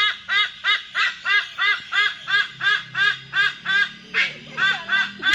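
A bird calling in a fast, even series, about three calls a second, each call a short rising-and-falling note. A little after four seconds in, a click and a lower, softer sound join the calls.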